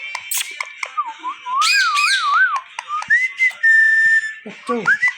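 Indian ringneck parrot whistling, a wavering up-and-down whistle and then a held steady note, broken by several short harsh screeches.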